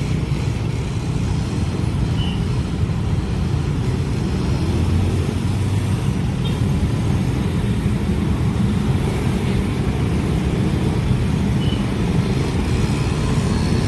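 Steady low rumble of a train passing a level crossing.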